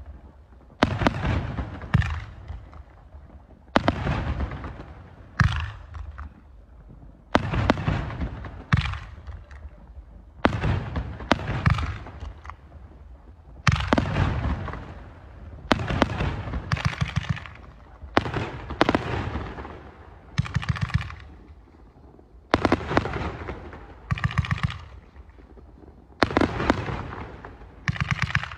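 Fireworks going off again and again: sharp bangs in clusters every second or two, some followed by bouts of rapid crackling.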